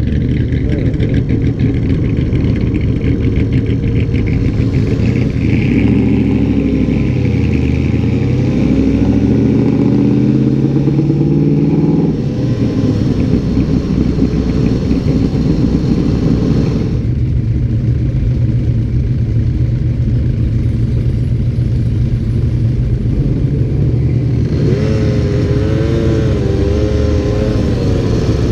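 Car engines running and revving on the street, their pitch rising and falling. The sound changes abruptly three times, about 12, 17 and 25 seconds in.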